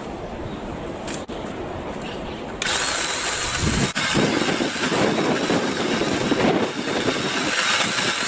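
BLACK+DECKER 18V cordless saw switching on about two and a half seconds in and running loudly with a thin whine, after a stretch of wind noise on the microphone. It stops just before the end.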